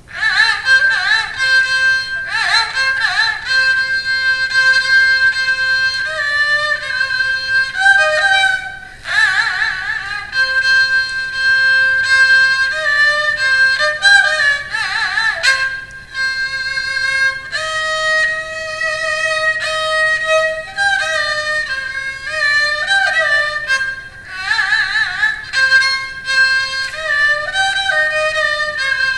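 Haegeum, the Korean two-string bowed vertical fiddle, playing a slow melody of held, wavering notes with bends between pitches; the music starts suddenly right at the beginning.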